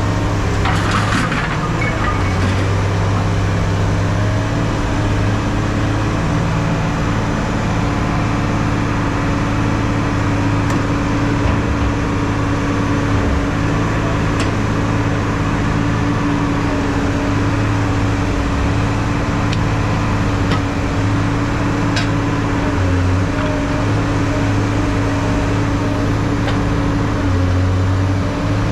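An engine running steadily with a constant low hum, and a short clatter about a second in.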